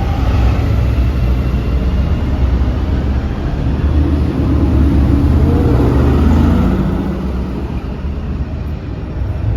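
Road vehicle noise: a car passes, its sound swelling to a peak about five to six seconds in and then fading, over a steady low rumble.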